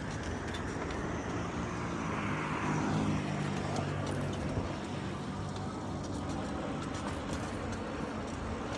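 Road traffic noise with a car driving past, loudest about three seconds in, over a steady background of traffic.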